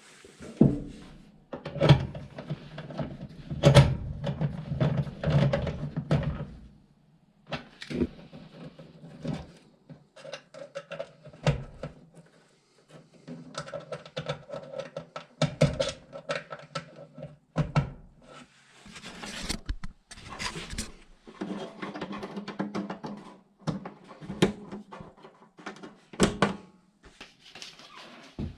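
Irregular knocks, clunks and clicks over stretches of low hum.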